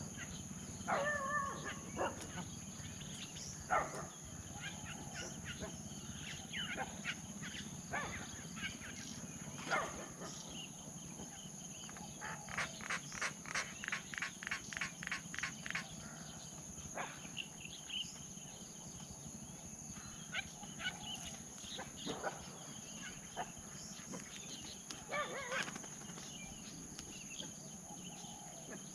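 Forest ambience: a steady high insect drone under scattered short bird calls. A rapid, even series of about a dozen notes, about three a second, runs through the middle, and short low calls come about a second in and again near the end.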